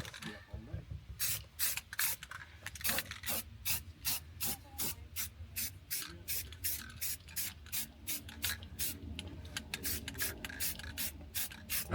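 Fast, even back-and-forth rubbing strokes by hand, about four a second, like scrubbing or scuffing a part's surface.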